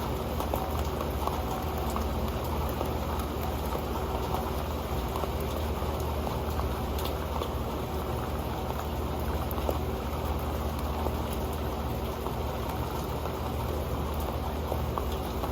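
Steady rain with a dense patter of drops falling on an old pan.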